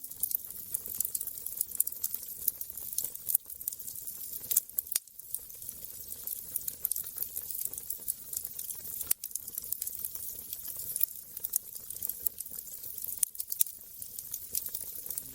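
Wood fire crackling in a fireplace: a dense run of small pops and snaps over a soft hiss, with a few sharper, louder cracks.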